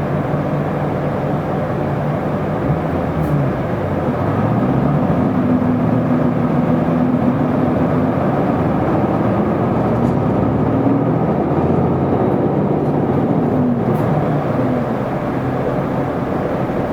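Isuzu Erga city bus's diesel engine heard from inside the cabin while driving, its note rising and dropping back several times as it accelerates and changes gear, over steady road noise.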